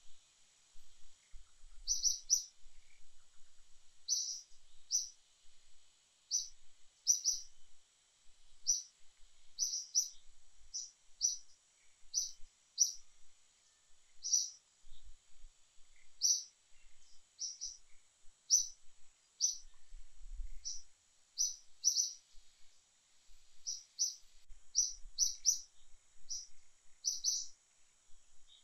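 A bird chirping over and over: short, high chirps at irregular intervals, about one or two a second, over a faint steady high-pitched tone.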